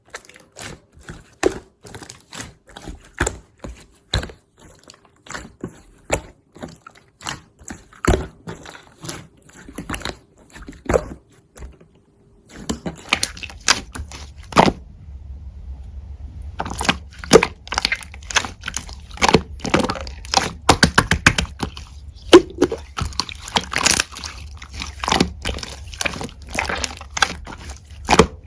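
Slime being squeezed and pressed by hand, making a string of sticky clicks and pops. About twelve seconds in it pauses briefly, then the clicking comes back faster over a low hum.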